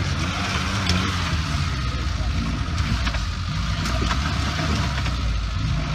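Lifted Suzuki Samurai's engine running steadily at low revs as the 4x4 crawls up a rutted dirt climb.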